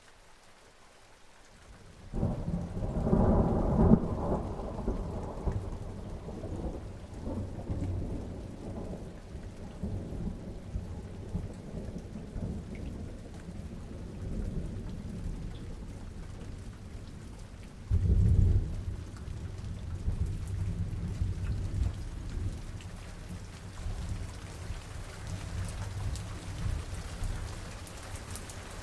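Thunderstorm: steady rain with a clap of thunder that breaks about two seconds in and rolls on for several seconds, then a second sharp rumble of thunder past the middle, both fading into the rain.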